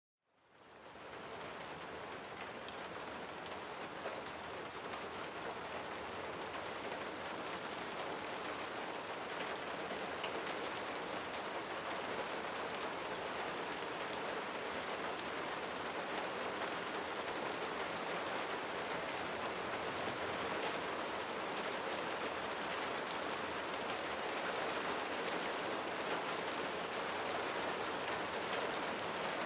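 Steady rain with many fine drop patters. It fades in from a moment of silence at the start and grows slowly a little louder.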